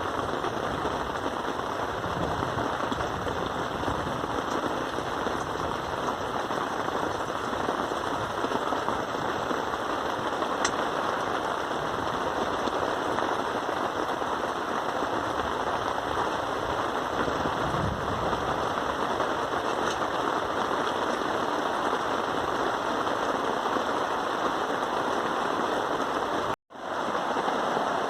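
Steady rain falling, a dense, even hiss, cutting out for an instant near the end.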